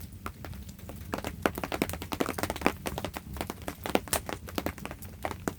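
Rain starting to fall: scattered raindrops striking close by as irregular, sharp taps, several a second, over a low steady background rumble.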